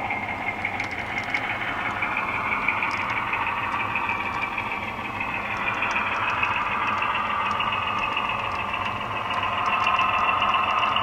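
HO scale model locomotive running along the track: a steady mechanical whine whose pitch drifts slowly upward, with faint scattered clicks.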